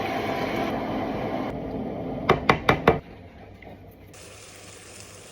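Food frying in a pan: a steady sizzling hiss, with four quick sharp knocks about two and a half seconds in, after which the sound drops much quieter.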